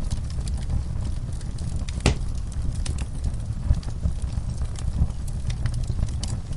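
Fireplace crackling, with scattered small pops and one sharper pop about two seconds in, over a steady low rumble.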